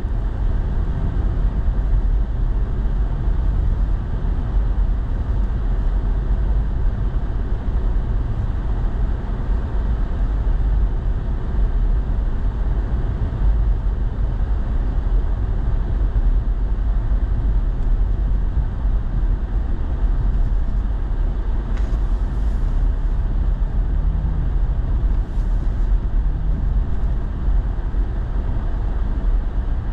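Steady low rumble of a truck on the move, heard from inside the cab: engine and road noise.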